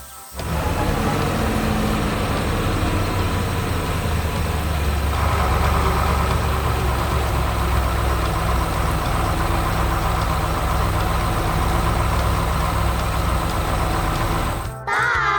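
Heavy vehicle engine running steadily with a deep rumble. It starts just after the opening and cuts off near the end.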